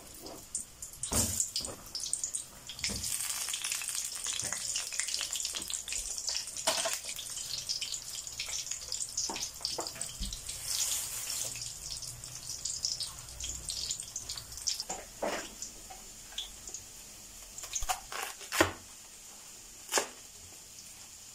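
Saba banana chunks frying in hot oil in a wok: a dense crackling sizzle that thins out after about twelve seconds. Near the end a few sharp knocks come from a knife cutting cabbage on a plastic chopping board.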